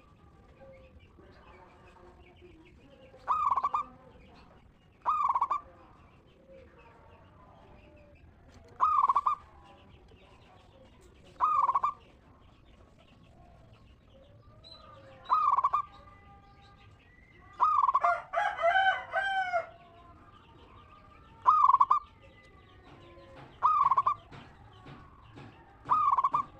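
Zebra dove (perkutut) singing: short ringing coos repeated every two to three seconds, with a longer run of overlapping calls a little past the middle. Faint chirping sounds between the calls.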